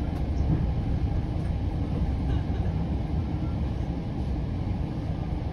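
Steady low rumble of a Bombardier Series VIII bilevel commuter rail coach rolling along the track, heard from inside the coach.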